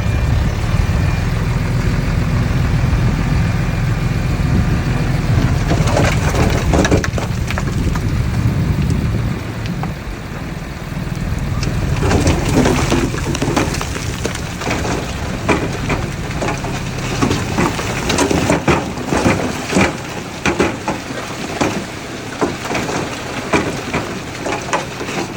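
Heavy earthmoving machinery: a deep, steady engine rumble for about the first ten seconds, then, from about twelve seconds in, irregular crunching and crackling of soil and stones being moved, with the engine still running underneath.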